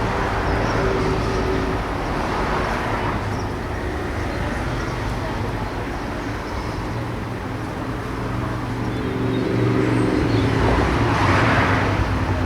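Road traffic going by, with a steady low hum underneath; the loudest pass is about ten to twelve seconds in.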